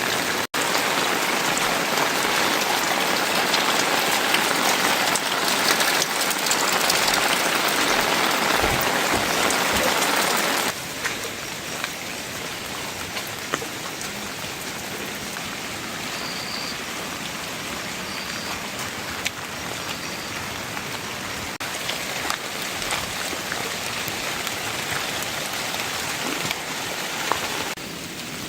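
Heavy rain falling in a steady hiss. It is suddenly quieter about ten seconds in.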